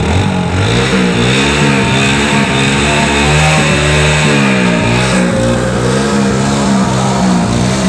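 Engine revving up and down over and over, its pitch rising and falling every second or so; it cuts in suddenly at the start.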